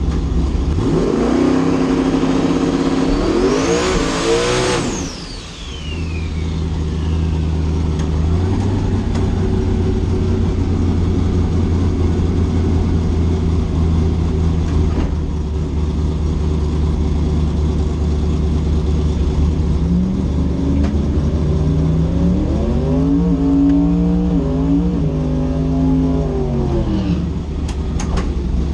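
Twin-turbocharged small-block Ford V8 in a Ford Zephyr launching and pulling hard through the gears for about four seconds, with a high turbo whistle rising over it. At about five seconds the throttle closes and the whistle falls away. The engine then drones steadily at low speed and revs up through several gears again near the end.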